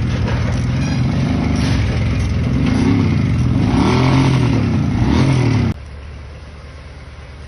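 A vehicle engine running loud and being revved up and down several times, as in an off-road recovery effort. It cuts off suddenly about two-thirds of the way through, leaving a much quieter low rumble.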